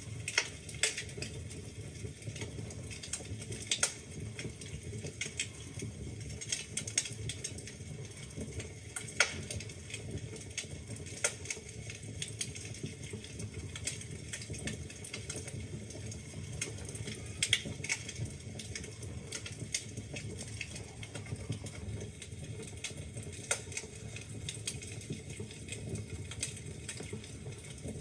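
Wood fire crackling in a fireplace: a steady low rumble of burning logs with irregular sharp pops and snaps, a few louder ones scattered through.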